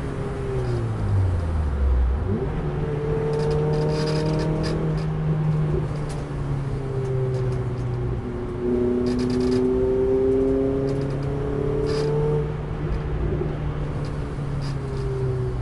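Renault Clio RS 200's four-cylinder engine heard from inside the cabin on track. The engine note drops about a second in as the car brakes for a corner, then climbs and runs on hard under acceleration, with road noise and a few sharp clicks.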